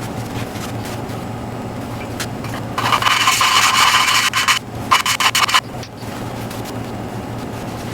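Valve lapping: an intake valve is twisted back and forth against its seat in a BMW 325xi cylinder head with a suction-cup lapping stick and grinding compound. It makes a gritty scraping in two spells, about three seconds in and again near the middle, over a steady low hum.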